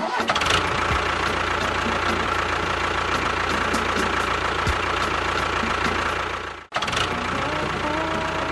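A motor running steadily with a faint regular ticking, cut off for an instant about two-thirds of the way through and then running on.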